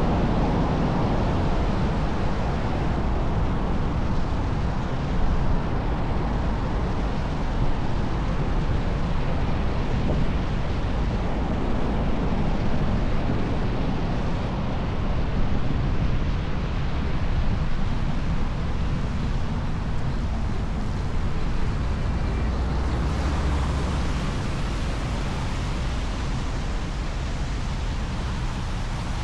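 Steady wind rush on the microphone of a camera carried on a moving electric unicycle, heaviest in the low end and rising and falling a little.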